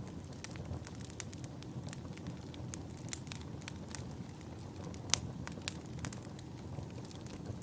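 Wood fire in a fireplace crackling, with irregular sharp pops and snaps over a steady low rumble of burning. One pop about five seconds in is louder than the rest.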